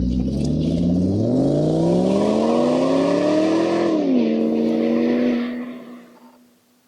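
A motor revving: its pitch climbs steadily for a few seconds, drops suddenly, holds briefly, then fades away.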